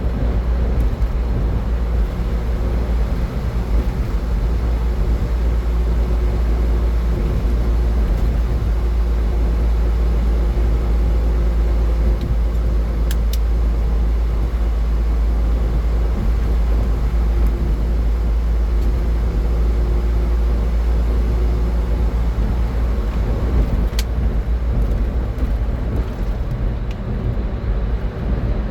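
Car driving at highway speed: steady road and engine noise with a strong deep low drone and a faint hum above it.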